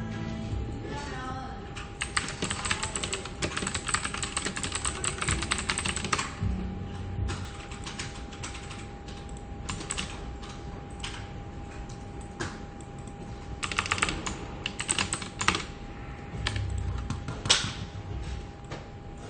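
Computer keyboard typing in bursts: a fast run of keystrokes lasting about four seconds, then scattered single taps, then another quick run, over a steady faint hum.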